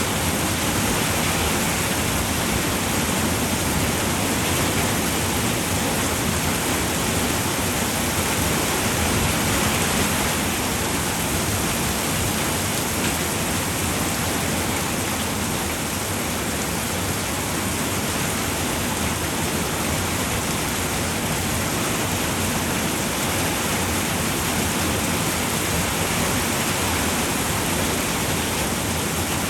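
Steady rain falling on a roof, a dense even hiss of drops with no separate impacts standing out.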